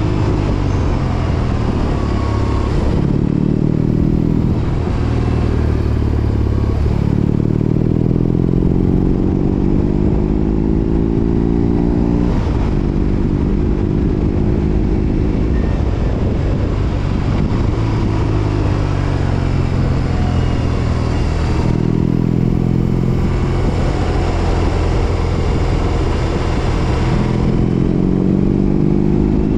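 BMW R18 Roctane's big boxer twin running through a Freedom 4.5-inch aftermarket exhaust under way. The engine note climbs in pitch, breaks and drops several times as the bike pulls through the gears and eases off.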